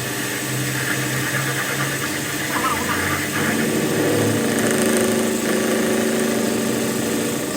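A machine's motor running steadily, its hum shifting to a higher pitch about halfway through.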